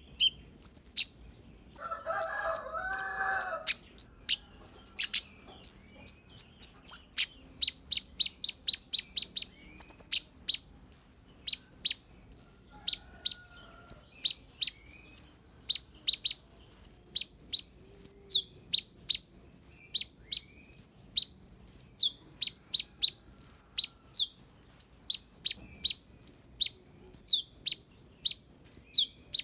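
Konin songbird singing white-eye (pleci) style song: a long, fast series of sharp, high chirps at about two to three a second, with a brief lower warbling phrase about two seconds in.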